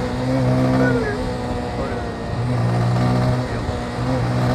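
Motorcycle riding along the road, its engine note holding steady and dropping away briefly twice before coming back.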